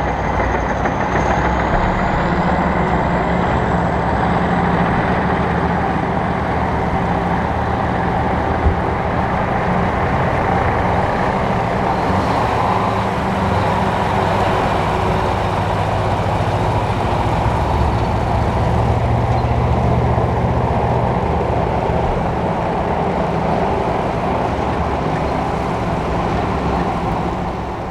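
Armoured recovery tank's heavy diesel engine running steadily as it passes, easing off slightly near the end.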